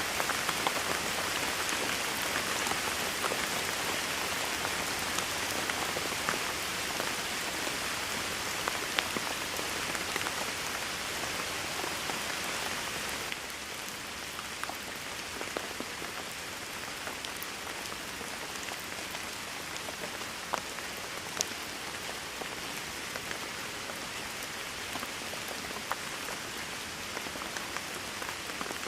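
Steady heavy rain falling, an even hiss with scattered louder single drops. About halfway through it becomes slightly quieter.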